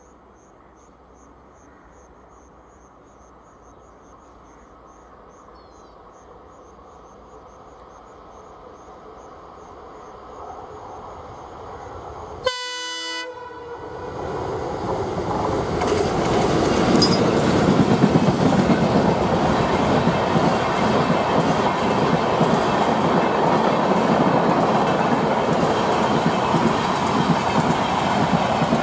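A WDM-3D diesel locomotive hauling a passenger train approaches, growing steadily louder, and sounds one short horn blast about halfway through. The locomotive and coaches then pass close by, loud, with the wheels clattering over the rails.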